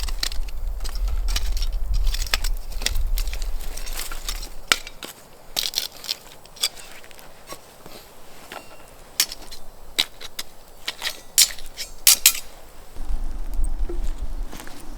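Irregular crunching and sharp snapping clicks, like dry leaves and twigs being crushed and broken. The crunches are dense in the first few seconds over a low rumble of movement, then thin out to scattered separate snaps before picking up again near the end.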